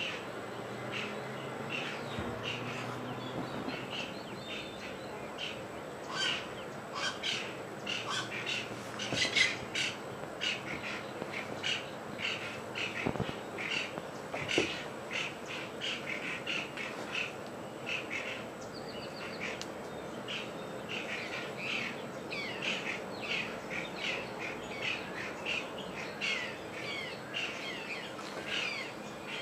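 Wild birds calling in a busy chorus of many short, repeated calls, some harsh, several falling in pitch. The calling gets denser about six seconds in.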